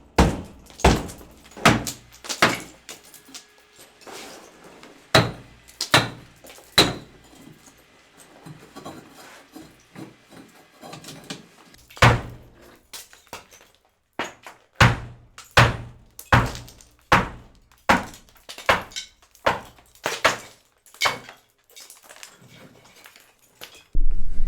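Heavy hammer blows striking brick masonry, about one blow a second in runs with pauses between. A loud steady noise starts just at the end.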